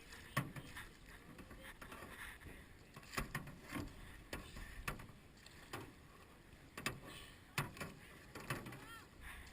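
Canoe paddles working hard in the water, with sharp knocks of paddle shafts against the canoe's sides at uneven intervals, about one a second.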